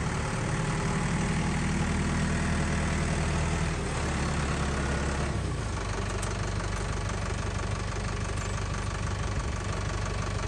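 Tractor engine running steadily, its low note shifting a little past halfway through.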